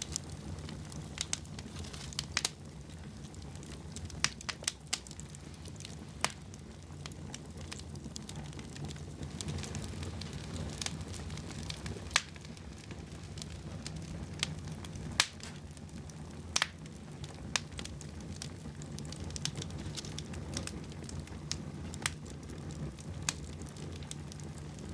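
Wood fire crackling in a fireplace: irregular sharp pops and snaps over a steady low hum.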